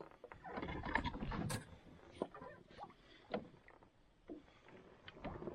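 Scattered knocks, clicks and rustling of gear being handled in a canoe, with a few sharp clunks against the hull.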